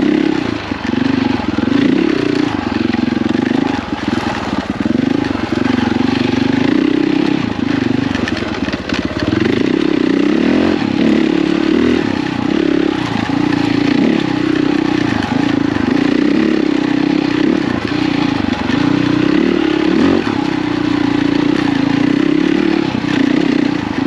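KTM 450 EXC single-cylinder four-stroke enduro engine being ridden hard through rough woods trail, its note rising and falling constantly as the throttle is worked on and off.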